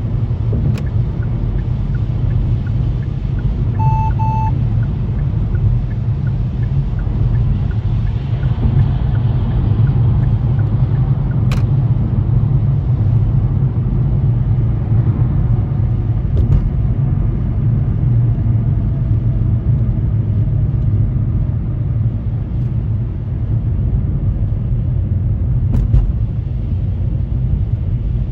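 Steady road and engine rumble of a car at highway speed, heard from inside the cabin. A short double electronic beep sounds about four seconds in, and a sharp click near twelve seconds.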